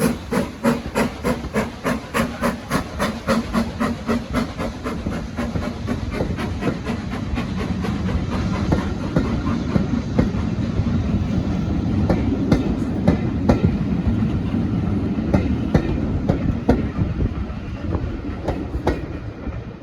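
Steam locomotive running past with rapid, even exhaust beats that fade over the first several seconds. Then comes the low rumble of the train's coaches rolling by, with scattered wheel clicks over the rail joints.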